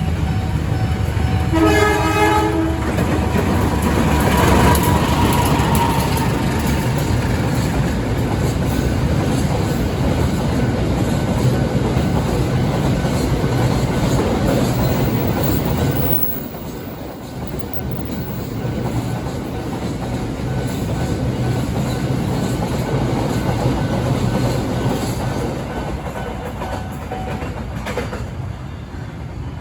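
Container freight train passing: the locomotive's horn sounds briefly about two seconds in, then a long steady rumble of wagons and wheels clacking over the rail joints. The rumble drops noticeably about halfway through.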